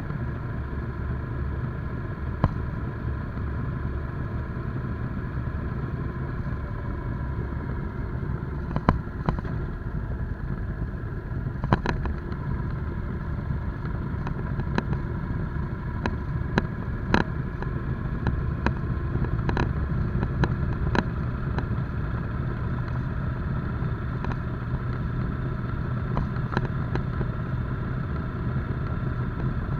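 Motorcycle engine running at a steady, even pace while riding, with a scattering of sharp clicks and knocks over it.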